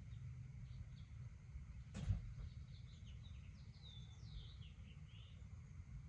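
A bird calling in a quick run of short chirps and whistled notes from about three seconds in, over a steady low rumble. A single sharp knock comes about two seconds in.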